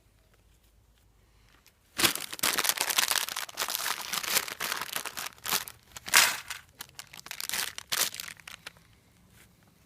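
Crinkly packaging crumpled and rustled by hand, a dense run of crackling that starts suddenly about two seconds in and dies away near the end.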